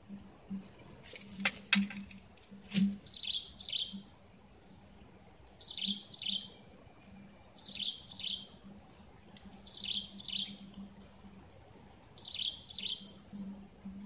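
A bird repeating a call of two quick high notes about every two seconds. A few sharp clicks come in the first three seconds.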